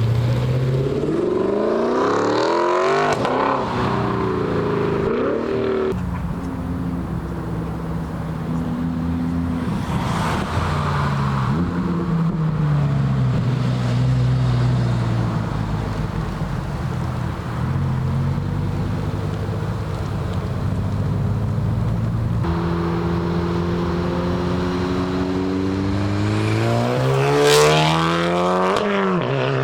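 Car engines revving and accelerating away one after another, the pitch climbing through the gears as each car pulls out and passes. The hardest acceleration comes near the end.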